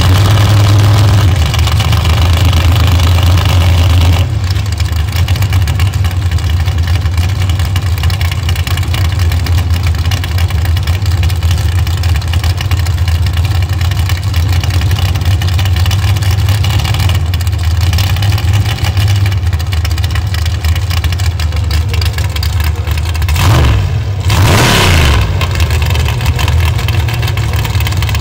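Drag-race car engines running loudly at idle with a steady low drone. About 24 seconds in, a brief engine sweep falls in pitch.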